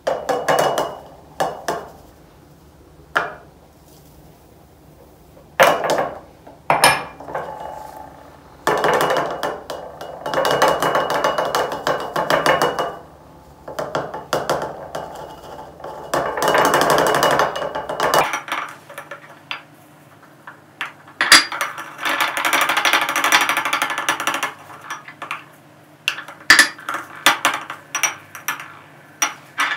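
Kitchen jars and containers being handled: sharp knocks and clinks, with several stretches of a second or more of steady rattling or rustling noise, as when dry goods are shifted or poured.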